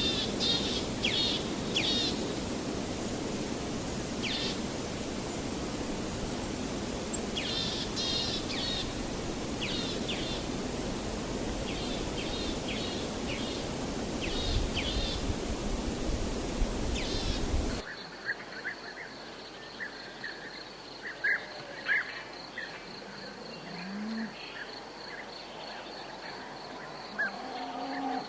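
Outdoor ambience: birds chirping in short repeated calls over a steady hiss. About two-thirds of the way in it cuts to a quieter stretch, where an insect trills steadily and high with quick pulses, and birds keep calling.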